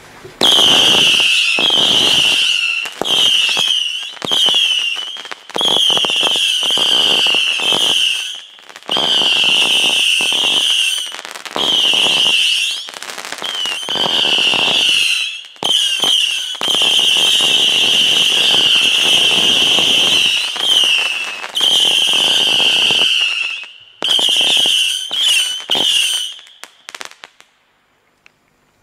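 Whistling fireworks going off one after another: a string of loud, high shrill whistles, some brief and some lasting a few seconds, each with a rushing hiss beneath it, stopping shortly before the end.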